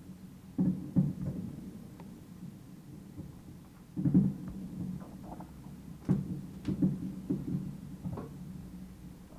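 Fireworks bursting: groups of dull bangs, a pair about a second in, another group around four seconds in, and a run of bangs from about six to eight seconds in.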